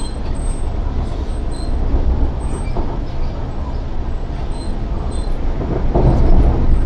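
Inside an MTR East Rail line R-Train, a Hyundai Rotem electric multiple unit, running along the line: a steady low rumble of wheels on rails, getting louder about six seconds in.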